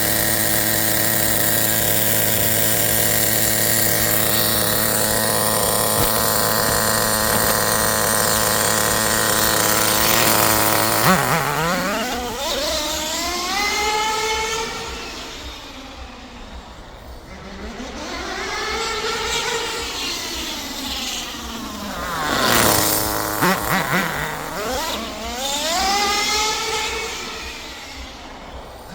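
Small engine of an engine-powered RC car running at a steady high pitch for about eleven seconds, then revving up and down over and over as the car drives about. The sound swells and fades as it comes near and goes away.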